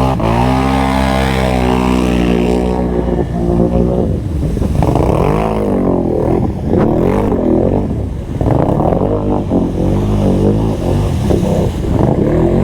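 ATV engine revving hard through deep mud, its pitch holding for a few seconds and then rising and falling again and again as the rider blips the throttle.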